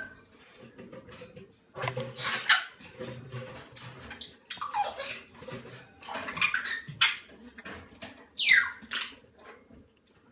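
Moluccan cockatoo chicks giving raspy food-begging calls while being hand-fed, in a series of short irregular squawks, several falling in pitch.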